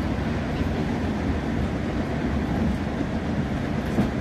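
Passenger train running, heard from inside the carriage: a steady low rumble of wheels on the track, with one light knock near the end.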